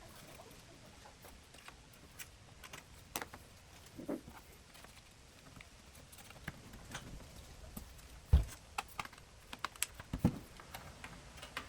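Scattered light clicks and taps of a car radio head unit's plastic and metal parts being handled during disassembly, with a sharper knock about eight seconds in and a quick run of taps after it.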